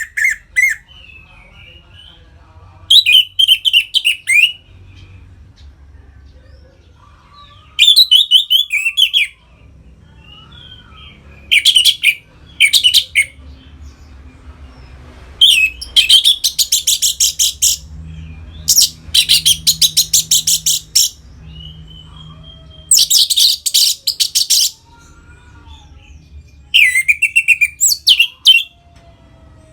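Orange-headed thrush (anis merah) in full open 'ngeplong' song: loud phrases of rapid, high, varied notes, each one to three seconds long, with pauses of a few seconds between them. A faint low hum runs underneath.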